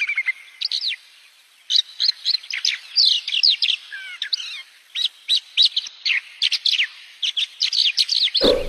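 Small birds chirping in quick series of short, high, downward-sweeping notes, with a brief lull about a second in. A short low thud near the end.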